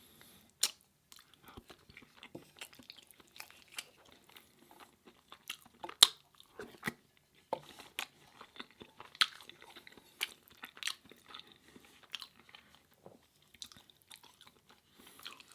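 Close-miked chewing of food, with sharp mouth clicks and crunches at irregular intervals. The loudest click comes about six seconds in.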